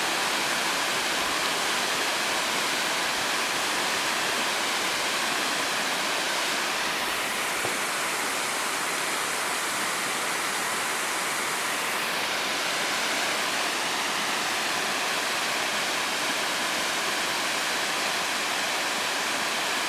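Otonashi Waterfall: a steady rush of falling water, its hiss dulling a little for a few seconds midway.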